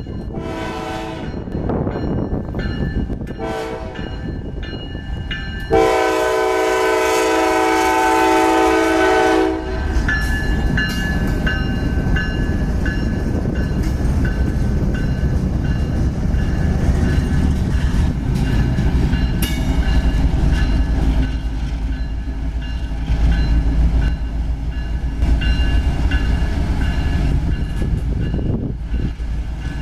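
Diesel freight locomotive sounding its air horn: several short blasts, then one long blast of about four seconds. The train then rolls past with a steady low rumble, and thin high tones come on and off over it, typical of wheel flanges squealing on a curve.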